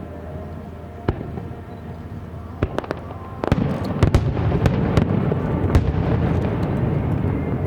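Aerial fireworks shells bursting: a few separate bangs over a steady low rumble, then from about halfway a rapid barrage of loud booms that run together.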